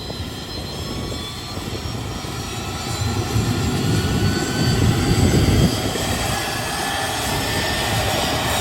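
Airliner engines running with a whine over a heavy rumble. The sound swells to its loudest about five seconds in and then holds steady, the whine climbing slightly in pitch.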